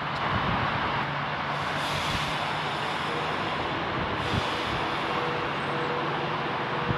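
Virgin Pendolino Class 390 electric train running along the platform: a steady rush of wheels on rail and moving air, with a faint steady whine coming in about three seconds in.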